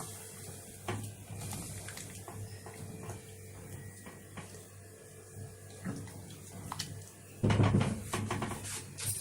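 Spoon stirring basmati rice, vegetables and hot water in a cooking pot, with light scrapes and clinks against the pot. About seven and a half seconds in there is a louder clatter of spoon on pot.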